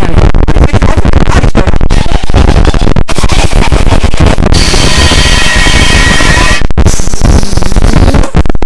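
Extremely loud, harsh distorted noise, deliberately overdriven meme audio ('earrape'), with sudden brief dropouts. A higher buzzing tone rides over it from about halfway through for two seconds.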